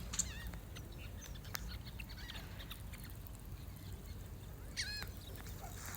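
Ducks and geese calling: a few short calls, one just after the start, a fainter one about two seconds in and a louder one near the end, over low steady background noise.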